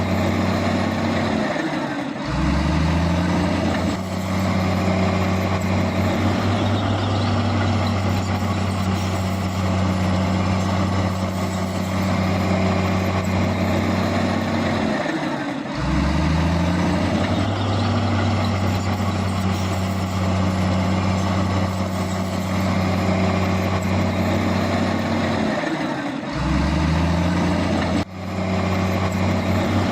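Heavy diesel engine running steadily under load. Three times its pitch drops and then climbs back up.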